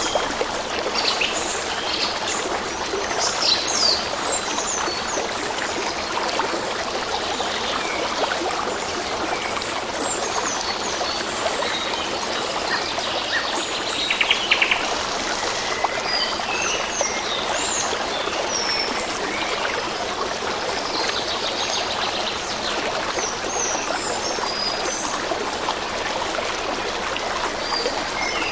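A stream running steadily, with small birds chirping now and then over it and a short rapid trill about halfway through.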